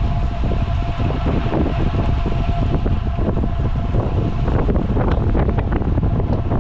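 Headwind buffeting the microphone of a rider on a bicycle: a steady low rumble of wind noise.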